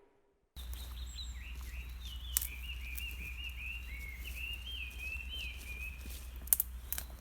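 A small songbird singing a quick run of chirping, warbling notes over a steady low rumble of outdoor ambience, with a few sharp ticks near the end.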